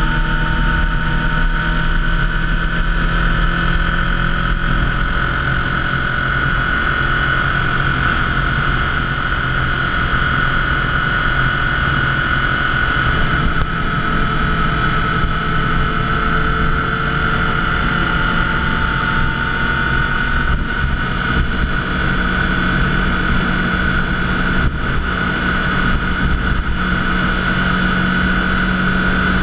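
Motorcycle engine running at a steady cruising pace while riding, its note holding fairly even with slight drifts in pitch, over a constant rush of road and wind noise.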